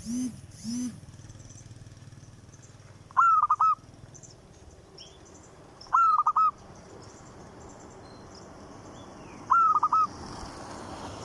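A bird calling: a loud, short three-note call repeated three times, about three seconds apart. Two short, low calls come at the start.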